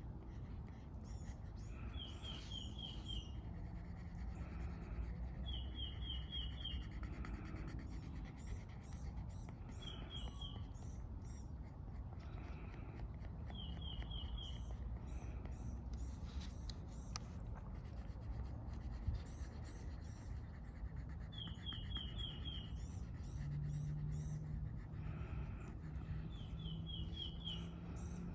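Coloring on paper, a soft scratching and rubbing of the tip over the page, over a steady low outdoor rumble. A bird repeats a short phrase of four or five quick high notes every few seconds, six times.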